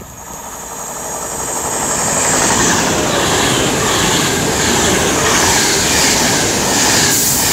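Class 158 diesel multiple unit passing through the station non-stop. Its rumble and wheel noise build over the first two seconds, then stay loud and steady as the train goes by.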